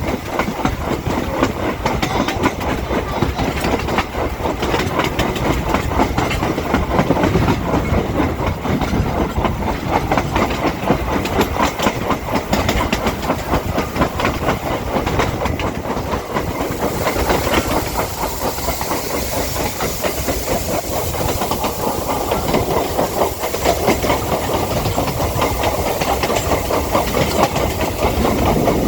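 Vintage steam train running on the rails, wheels clattering steadily over the track. A little past halfway, a steady hiss of steam joins in.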